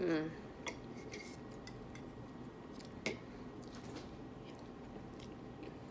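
Fork clinking and scraping against a plate as food is eaten: a few sparse, faint clicks. A short voiced sound, falling in pitch, comes right at the start.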